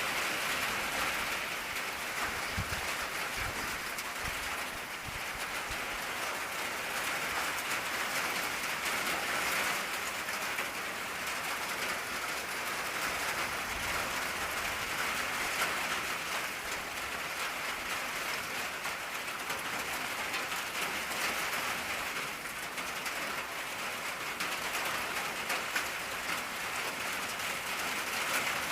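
Steady rain drumming on an old corrugated tin roof, a dense hiss of drops with fine pattering ticks. A few low thumps come a few seconds in.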